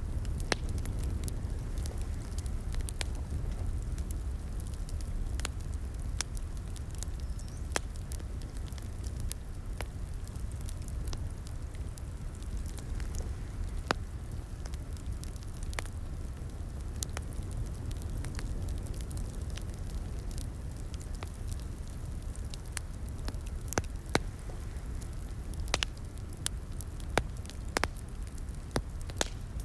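Wood fire crackling in a fireplace: a steady low rumble of flames under frequent sharp, irregular pops and snaps, a few of them louder.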